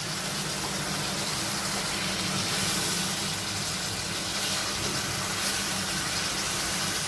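Chicken and spice masala sizzling steadily in a non-stick kadai, a continuous frying hiss with a steady low hum underneath.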